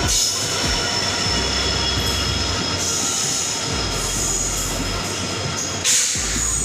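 Indian Railways passenger train running on the rails: a steady rumble with thin, high, steady squealing tones from the wheels, and a short loud hiss about six seconds in.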